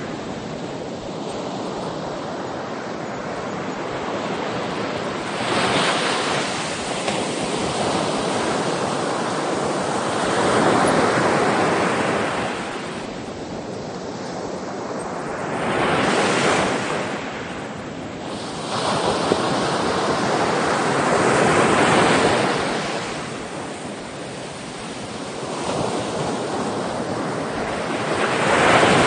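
Sea waves breaking and washing up on a shore, surging and fading every few seconds, with wind on the microphone.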